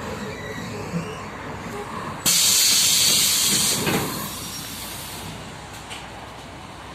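Sudden loud hiss of compressed air let out by a MAZ-105 city bus's pneumatic system, about two seconds in, lasting a second and a half and then tailing off, over the bus's steady running rumble.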